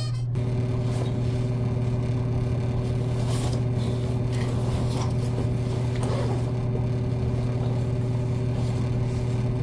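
Steady low drone of a car's engine and road noise heard from inside the cabin while driving.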